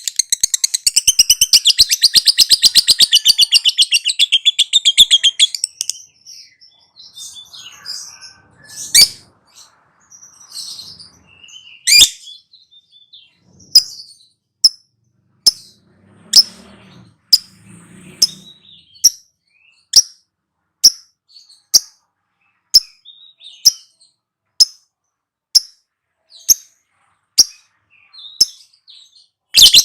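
Lovebird giving a long, rapid chattering trill (the 'ngekek') for about the first six seconds, then scattered sharp chirps. These settle into a steady run of single chirps, a little more than one a second, before the rapid trill starts again at the very end.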